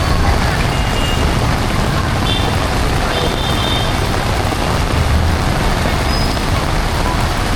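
Steady hiss of heavy rain mixed with the low rumble of passing road traffic. A few short high-pitched beeps are heard about two to four seconds in.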